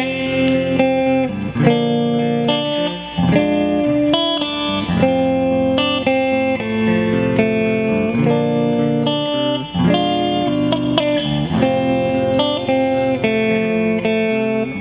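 ES-335-type semi-hollow electric guitar being played, with a steady run of changing chords and single notes, each new note or chord starting sharply and ringing on.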